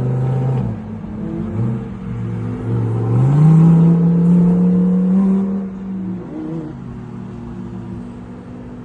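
Sports car engine revving: two short blips of the throttle, then a longer held rev that is the loudest part. About six seconds in it drops back to a lower, steady note and fades.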